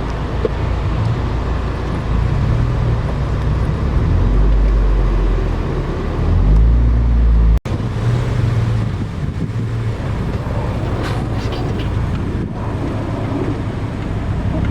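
A car engine runs steadily with road noise, heard as a low drone, and swells slightly midway. An abrupt cut breaks it about seven and a half seconds in, then the same steady drone carries on.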